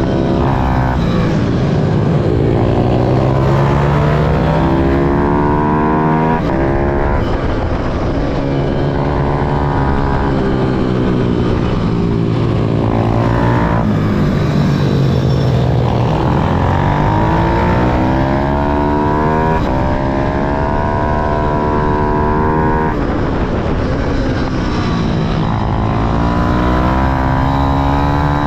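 Small single-cylinder motorcycle engine of a pit bike or minimoto being ridden hard on a track: its pitch climbs steadily under acceleration, drops sharply at gear changes and falls away into corners, over and over.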